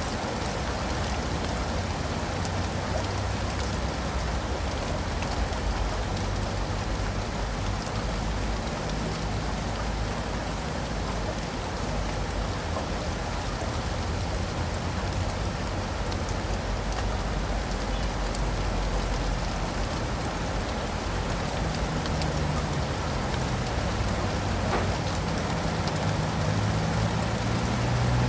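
Steady rain falling on leaves and pavement, with a low rumble underneath that grows a little louder near the end.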